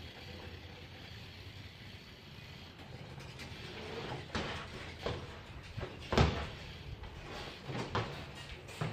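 A low steady rumble, then a run of separate knocks and clatters starting about four seconds in, the loudest about six seconds in.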